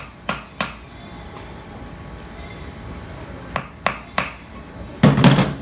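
Steel hydraulic pump parts being handled on a bench: a few sharp metallic clinks and taps, then a louder clatter near the end.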